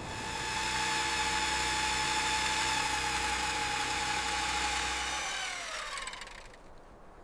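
A power tool's motor runs at a steady high whine, then spins down with falling pitch and stops about two-thirds of the way through.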